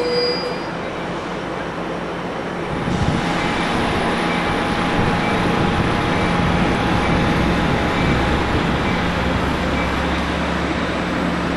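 Amtrak bilevel passenger train at the station platform, its diesel locomotive giving a steady low rumble under broad rolling noise. A faint wheel squeal dies away at the start, and the sound gets louder about three seconds in.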